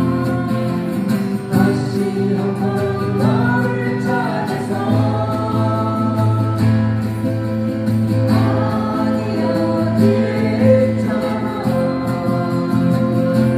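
Singing with acoustic guitar accompaniment: long held sung notes, some with vibrato, over steady strummed chords, played through a PA system.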